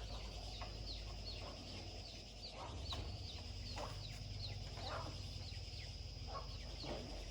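Birds calling: many short, high chirps that fall in pitch, several each second, with a few lower clucking calls, over a steady low hum.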